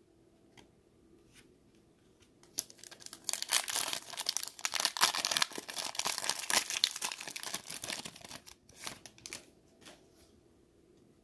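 Plastic wrapper of a football trading-card pack being torn open and crinkled by hand, a dense crackling that builds about two seconds in and dies away near the end.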